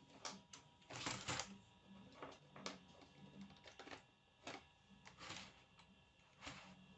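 Faint, irregular clicks and brief rustles of handling at a computer desk, a few spread across several seconds, over a faint steady hum.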